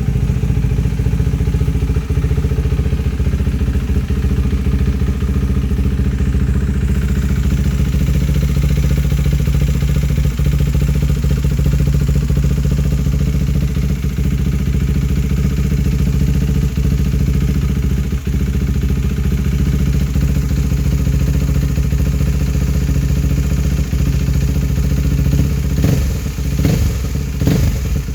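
KTM Duke 390's single-cylinder engine idling steadily through an aftermarket Remus exhaust with a VMAX resonator, then given a few quick throttle blips near the end.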